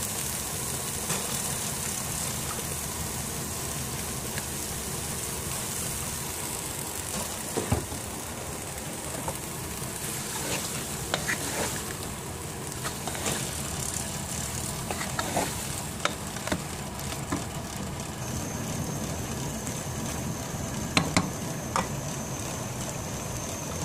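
Sliced gourd frying in a pot with a steady sizzle, stirred with a spoon that clicks and knocks against the pot now and then.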